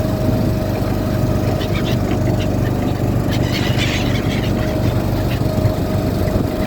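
Small boat engine running steadily, with short high-pitched bird calls between about one and a half and four seconds in.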